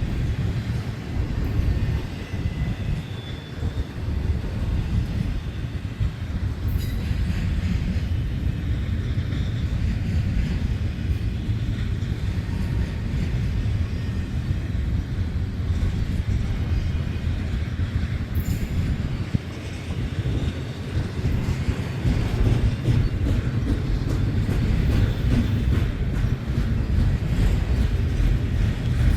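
A long freight train's cars rolling past, a steady heavy rumble of steel wheels on rail. Faint high wheel squeal comes and goes, and a couple of sharp clanks come about seven and eighteen seconds in.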